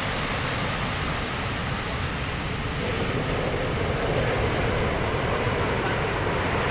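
Big ocean waves breaking and washing up the beach in a steady wash of surf, with wind buffeting the microphone.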